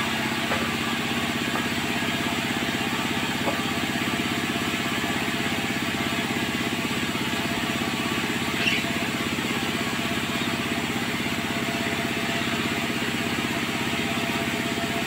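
Sawmill machinery running steadily with an even engine-like drone, with a few faint clicks.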